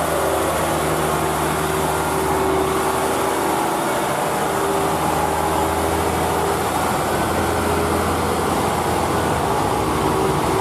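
Heavy truck engine running with a steady, low, even hum, under continuous road and traffic noise.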